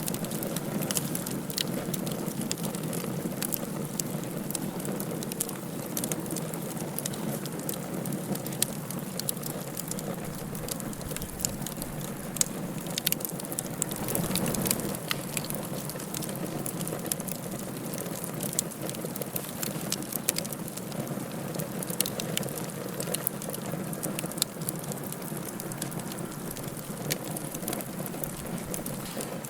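Wood fire burning in a fireplace: a steady rush of flames with frequent sharp crackles and pops, swelling briefly about halfway through.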